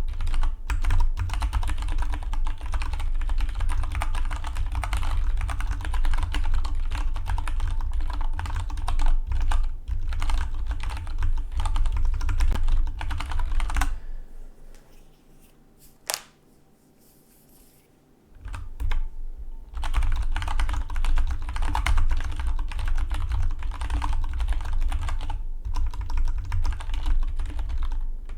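Fast, continuous typing on a Dygma Defy split mechanical keyboard, the keystrokes clattering in quick succession. About halfway through the typing stops for some four seconds, broken by a single keystroke, then picks up again at the same pace.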